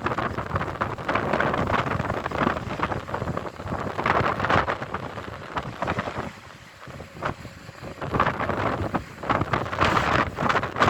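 Strong gusty wind buffeting the microphone, rising and falling, with a brief lull a little past the middle.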